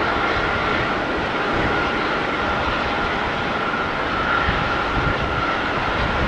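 Jet airliner's engines running steadily: an even rushing noise with a high whine held on one note.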